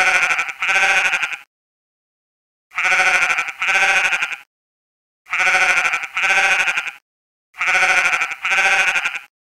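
Sheep bleating: four pairs of bleats, each pair two calls in quick succession, the pairs about two and a half seconds apart and alike.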